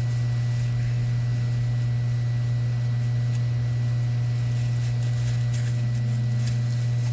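Steady low hum with a faint, thin high whine above it, unchanging throughout.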